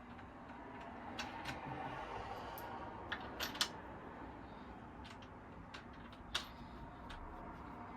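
Scattered light clicks and knocks of sofa parts being handled during assembly, with a few sharper ones about three and a half and six and a half seconds in, over a steady low background noise.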